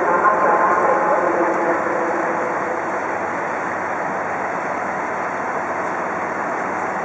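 Siemens Desiro diesel railcar running at the platform: a steady mechanical noise with a faint whine in the first two seconds that fades away.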